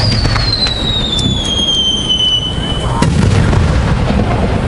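Fireworks display: a whistling firework gives one long whistle that falls steadily in pitch for about three seconds, among scattered sharp pops and crackles over a steady low rumble.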